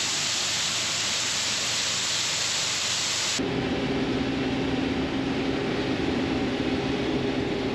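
A steady rushing hiss, then an abrupt switch about three and a half seconds in to the steady drone of a farm machine's engine, with a constant low hum.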